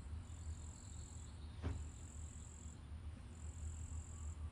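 High-pitched insect trilling that comes in bouts a second or so long with short gaps between, over a low steady hum. A single quick falling sweep sounds near the middle.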